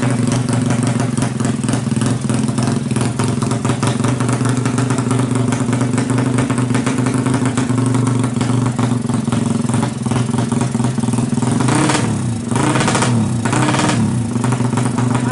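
Suzuki Satria FU single-cylinder four-stroke engine, bored to 200cc for racing, idling steadily. Near the end it is given a few short throttle blips whose revs fall back to idle.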